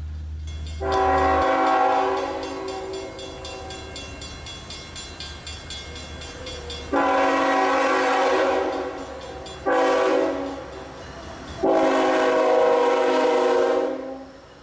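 Freight locomotive's multi-chime air horn sounding the grade-crossing signal: two long blasts, a short one and a final long one, the first long blast loud at first, then fading.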